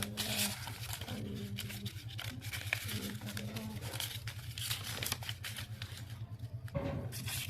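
Paper banknotes rustling and crinkling as they are handled one by one during counting, a run of short crisp crackles.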